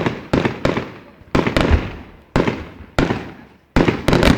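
Firework shells bursting overhead at a display: a rapid string of sharp bangs, some in quick pairs, each followed by a rolling echo that fades away.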